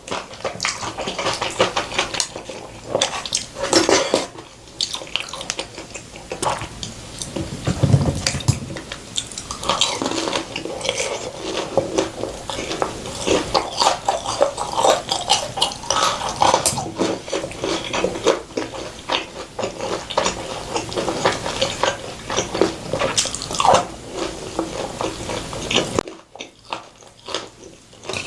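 Close-miked mukbang eating sounds: wet chewing, biting and slurping of Korean-Chinese noodles and crispy pork, with occasional clinks of utensils against the dishes. Dense, irregular clicks and smacks that ease off briefly near the end.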